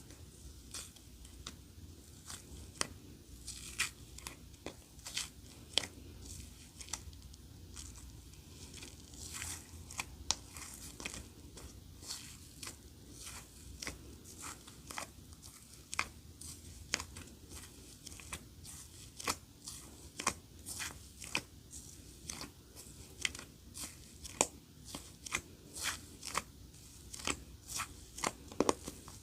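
Clear slime being squeezed and pressed by hand, giving irregular sharp clicks and pops, several a second, as air pockets in it burst.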